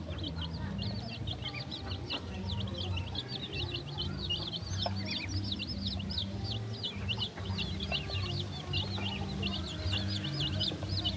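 A crowd of chicks and ducklings peeping without pause, many short high-pitched calls overlapping, while they feed.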